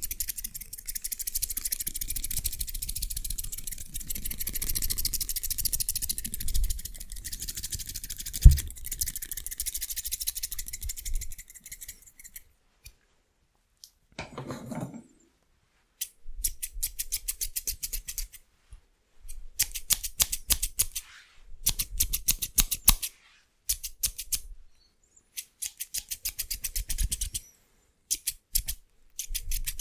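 Scissors snipping very fast and continuously for about the first twelve seconds, with one sharp knock partway through. After a short pause and a brief rustle, the fast snipping returns in short bursts with gaps between them.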